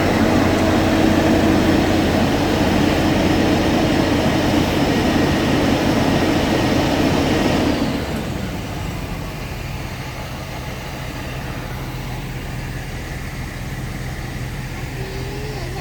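Engine of a rail maintenance machine running with a steady loud hum, dropping to a quieter, lower hum about eight seconds in.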